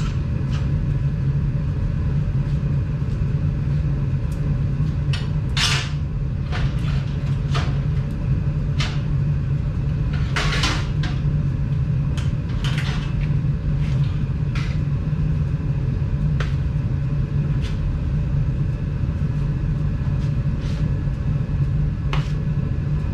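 A steady low hum runs throughout, with scattered sharp clicks and knocks of work on metal parts.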